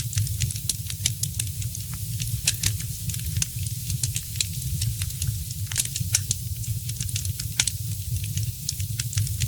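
Fireplace fire crackling, with irregular sharp pops and snaps, several a second, over a steady hiss and a low rumble.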